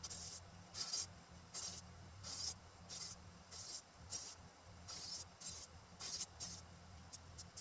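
Repeated hand strokes of an abrasive along the steel edge of a Kingston Arms Type XIIIa war sword: a faint scraping hiss about every three-quarters of a second as the blade is sharpened.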